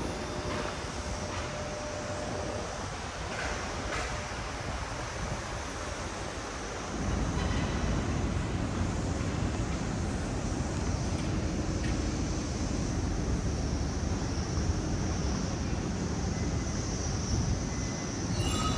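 Steady city road-traffic noise, a continuous rushing hum of passing vehicles that grows louder and deeper about seven seconds in.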